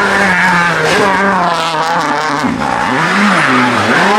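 Turbocharged four-cylinder World Rally Car engine held at high revs while the car spins donuts, with tyres scrabbling and squealing on the tarmac. About halfway through, the revs drop and rise again twice.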